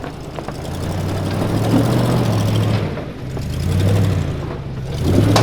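Off-road SUV engine working under load at low speed, crawling over rocks. Its note holds steady while the loudness swells and eases a few times as throttle is fed in and let off.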